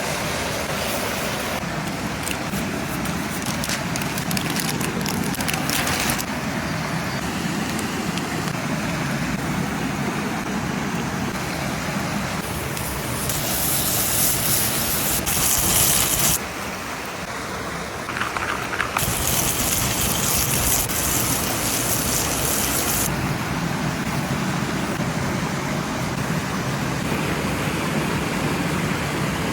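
Steak sizzling and hissing as it cooks, a steady noisy hiss that changes abruptly several times from one cut to the next.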